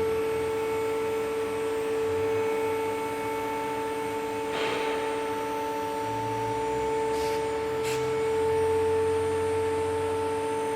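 Two-post car lift's electric hydraulic power unit running as it raises the carriages, a steady whine with overtones. A short hiss comes about four and a half seconds in, and two brief high sounds near the end.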